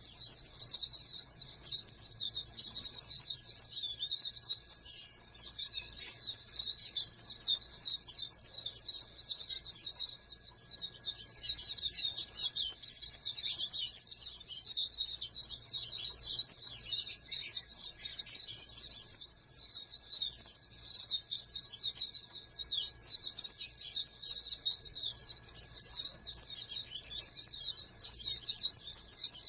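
White-eye (pleci) singing: a continuous, rapid, high-pitched twittering song, broken by a couple of short pauses near the end.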